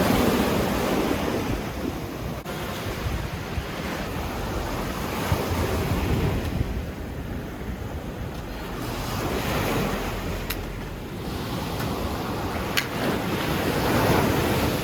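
Sea waves breaking on the shore, the surf swelling and falling back every few seconds, with wind buffeting the microphone.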